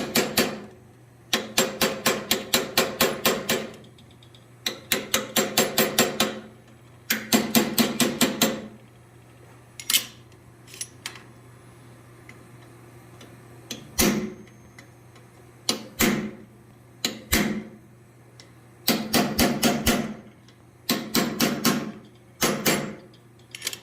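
Blacksmith's hand hammer striking hot steel on an anvil in quick runs of blows, about five a second, broken by pauses and a few single blows, as the steel is drawn out and shaped.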